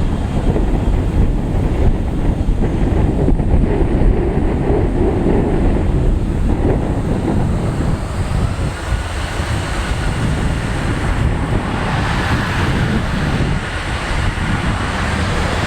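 Wind buffeting the microphone over a steady low rumble of jet aircraft noise. A faint whine rises slowly in pitch through the second half.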